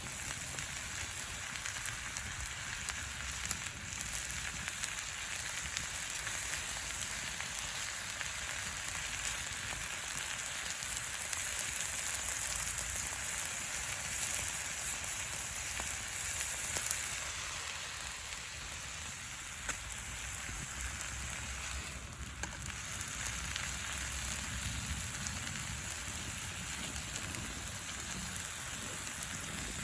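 Steady sizzling hiss with fine crackles from cooking over a wood campfire: food frying in a pan over the fire, with the wood crackling.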